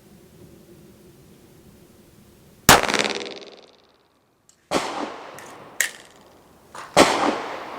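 Gen 5 Glock 19 9mm pistol firing single shots: a loud crack about three seconds in with a long echoing tail, then three more shots over the next few seconds, one of them weaker than the rest.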